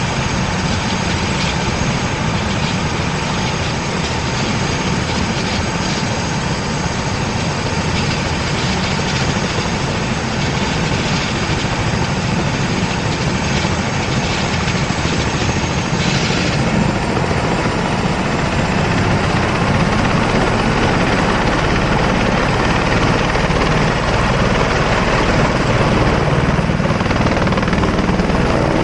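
Helicopter turbine engine and rotor running steadily. About halfway through, a high whine starts rising slowly in pitch and the sound grows a little louder.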